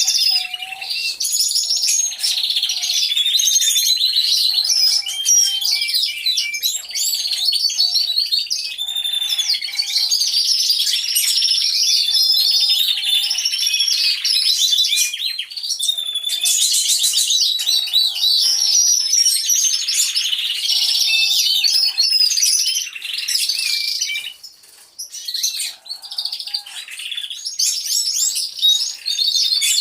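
A flock of domestic canaries singing together, many rapid trills and warbling phrases overlapping without a break. The chorus dips briefly about four-fifths of the way through, then picks up again.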